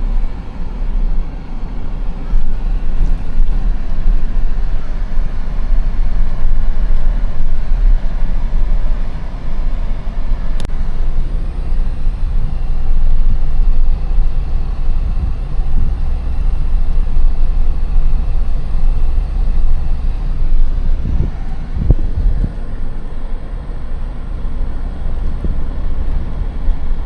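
Steady low road and engine rumble of a vehicle driving, with a couple of brief low bumps about three quarters of the way through.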